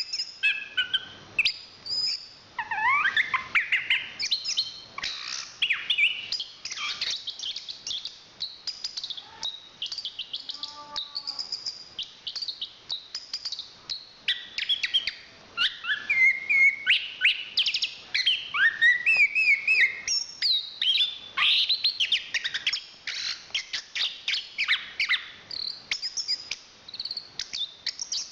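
Chestnut-capped thrush (anis kembang) singing a continuous, fast, varied song of whistled notes, rising and falling slurs and trills, with a brief lull about a third of the way in.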